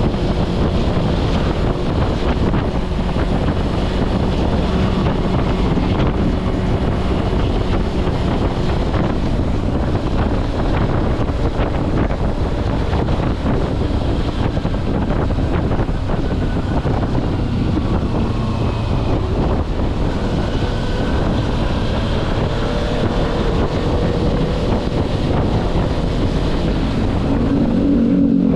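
Kawasaki Versys-X 250's parallel-twin engine running on the move, under heavy wind noise on the GoPro's microphone; the engine pitch shifts up and down in the last several seconds.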